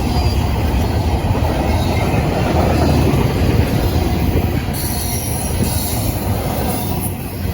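Train passing close by: a loud, steady rumble of cars rolling over the rails, with a higher squeal or hiss joining about five seconds in.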